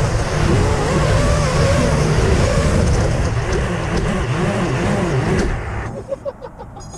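FPV racing drone motors and propellers whining, their pitch rising and falling with the throttle over rushing air noise. The sound drops away sharply near the end.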